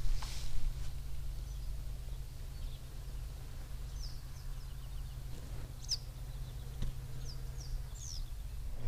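A few short, high, falling bird chirps in the second half, over a steady low rumble of wind on the microphone while cycling.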